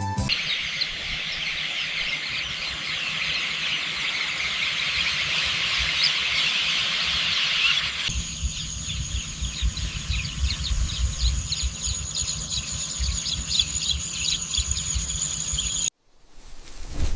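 Outdoor countryside chorus of dense, high-pitched chirping. About eight seconds in it changes to a steady high whine with rapid pulsing over a low rumble, which cuts off suddenly near the end.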